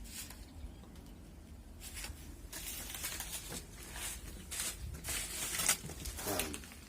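Irregular rustling and crackling of dry, rotten tree debris being disturbed, busier from about two seconds in.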